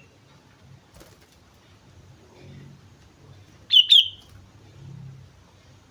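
Sooty-headed bulbul giving two short, loud calls in quick succession about four seconds in, each dropping in pitch at its end.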